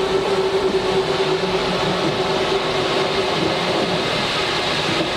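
Rubber-tyred Paris Metro Line 1 train running, with the muffled, steady rumble of its rubber tyres. A steady whine sits over the rumble and fades out about three and a half seconds in.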